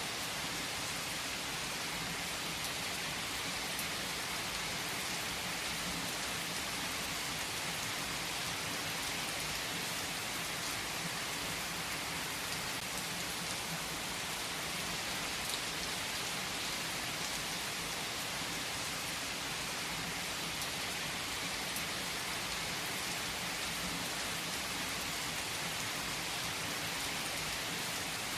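Steady rain falling: an even hiss with a few single drop ticks scattered through it.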